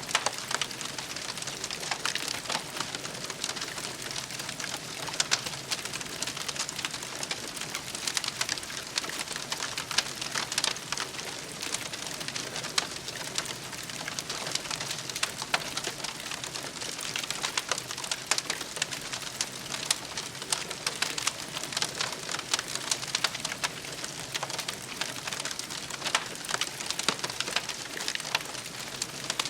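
Campfire burning steadily with a dense, continuous crackle and frequent small pops.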